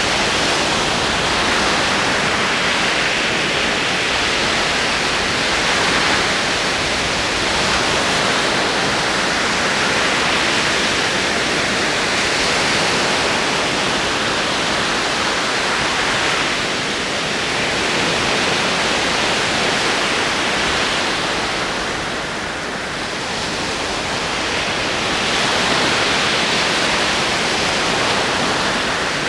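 Ocean waves rolling in: a continuous wash of surf that swells and eases slowly, with a softer lull about three quarters of the way through.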